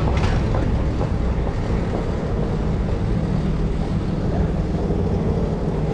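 City street traffic: a steady low rumble of vehicle engines, with a short hiss of noise just after the start.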